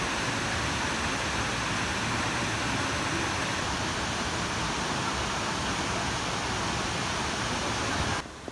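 Steady rushing of a waterfall, a dense even noise with no pauses, cutting off abruptly near the end to a much quieter hiss.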